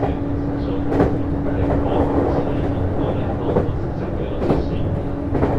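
Interior running sound of a JR East HB-E210 series hybrid diesel-electric train car under way: a steady rumble with a constant hum, and a few sharp clicks of the wheels over rail joints.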